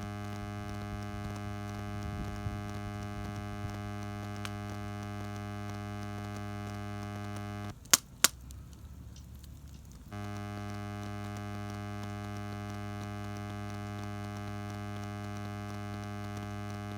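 Steady electrical hum, a buzz with many overtones. About eight seconds in it cuts out with two sharp clicks, then comes back about two seconds later.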